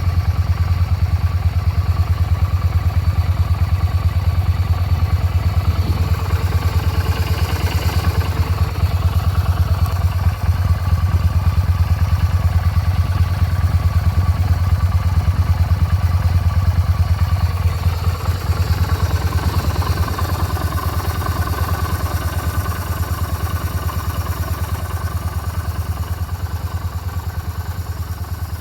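Yamaha SRV250S's long-stroke 60-degree V-twin idling with a steady, low, pulsing exhaust beat. It eases a little quieter about two-thirds of the way through.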